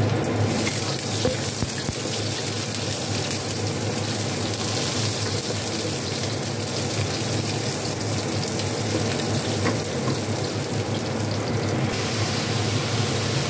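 Garlic, onion, and then ground meat with shredded cabbage and carrot sizzling in hot oil in a nonstick wok, stirred with a wooden spatula. The high hiss of the sizzle drops away about twelve seconds in.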